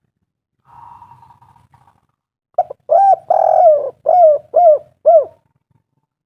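Spotted dove (tekukur) song: a faint purring note, then from about two and a half seconds in a loud run of cooing notes, one held longer in the middle, ending with three short arched coos.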